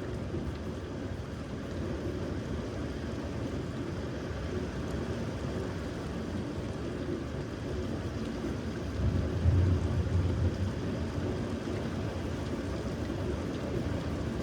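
Steady rain on a thunderstorm, with a low rumble of thunder rising about nine seconds in.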